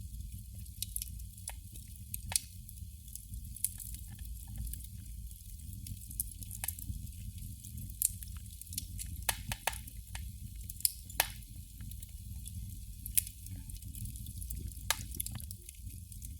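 Candle flame crackling: irregular sharp pops and ticks, sometimes several close together, over a steady low rumble.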